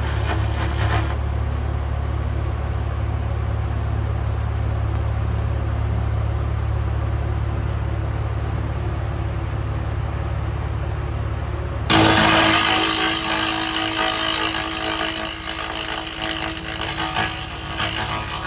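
Laser rust remover setup running with a steady low machine hum. About twelve seconds in, the hum breaks off and a louder, hissing buzz starts abruptly.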